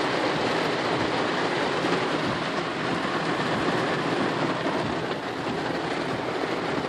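Steady rushing hiss of heavy rain and tyres on a flooded road, heard from inside a moving car.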